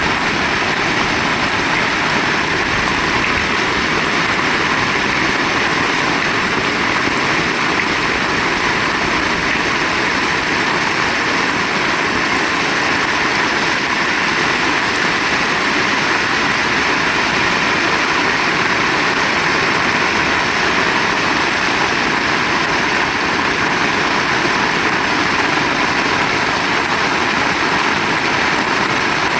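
Heavy rain falling steadily: a loud, even rushing noise that does not let up.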